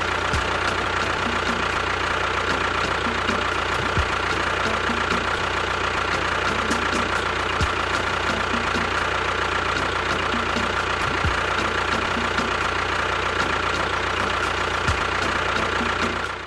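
An engine idling steadily with a steady high whine over a low hum, then cutting off suddenly near the end.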